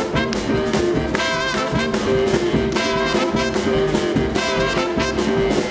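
Live swing band playing the instrumental intro to a blues number: horns sounding held notes over a steady drum beat and bass, before the singer comes in.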